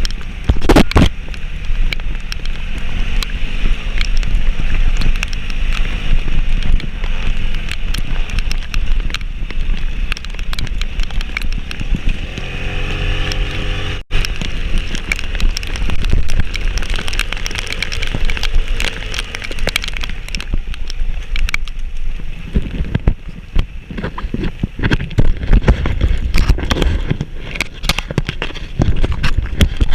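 Motor vehicle engine running under load, its pitch rising and falling as it revs, around the third to sixth second and again near the thirteenth, over a heavy rumble with frequent knocks and rattles from the ride.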